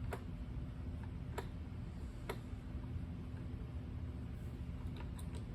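A few small, sharp clicks from a Phillips screwdriver and small screws as the screws are taken out of a bracket: three in the first two and a half seconds, and a few fainter ones near the end. A low, steady hum lies under them.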